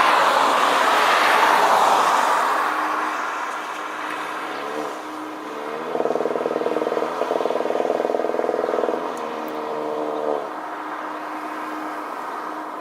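A jet airliner passing low overhead: a loud rushing jet noise that peaks in the first couple of seconds, then fades away. From about six to ten seconds in, a loud fluttering mechanical hum rises over it, then cuts off.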